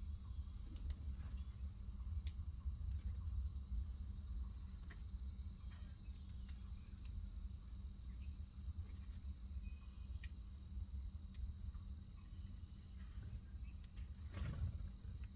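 Insects, likely crickets, calling in a steady high-pitched chorus. A second, higher pulsing trill joins for a few seconds early on, over a low background rumble. There are a few faint ticks, and a brief rushing sound near the end.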